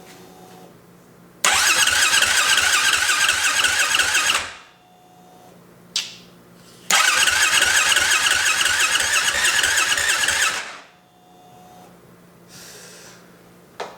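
A 2015 Yamaha WR450F's single-cylinder four-stroke engine being turned over by its electric starter in two bursts of about three seconds each, cranking without firing, with a short click between them. It will not catch because the cold-start knob has not been pulled, as the owner later finds.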